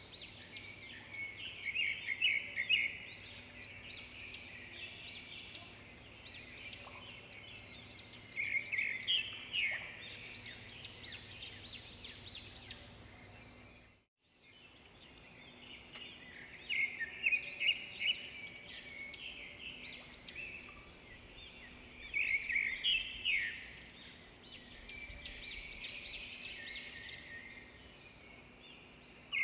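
Several small birds chirping and trilling in quick, overlapping calls over a faint steady low hum. The sound cuts out briefly about halfway through, then the chorus resumes.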